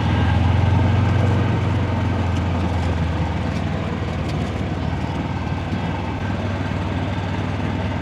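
Golf cart driving along with a steady low running hum, a little louder in the first couple of seconds.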